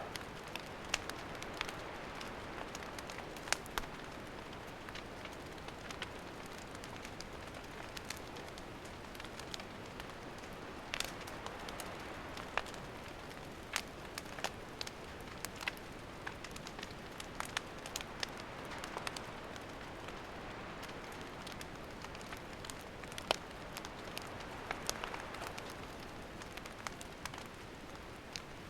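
Wood campfire crackling: irregular sharp pops and snaps over a steady low hiss of burning.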